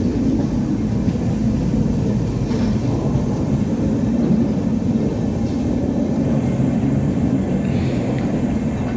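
A train running along the track with a steady low rumble.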